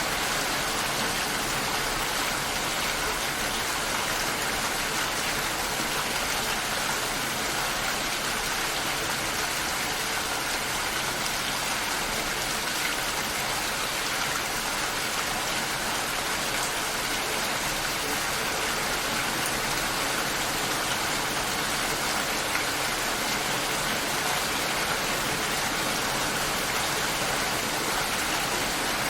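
Steady rain shower: an even hiss of falling rain that keeps the same level throughout.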